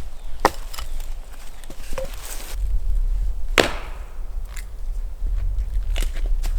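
Wood being chopped: a handful of separate sharp blows a second or more apart, the loudest about halfway through.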